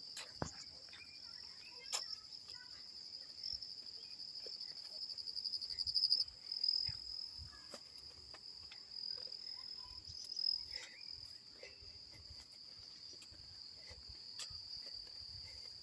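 Insects trilling steadily at a high pitch, swelling louder about five to six seconds in and then dropping back suddenly, with faint scattered clicks and low thumps.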